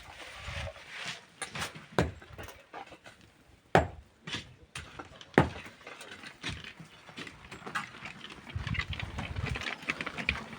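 Hand tools working rock and sand: irregular sharp knocks and scrapes, with three loud hits about two, four and five and a half seconds in, and a denser run of small knocks near the end.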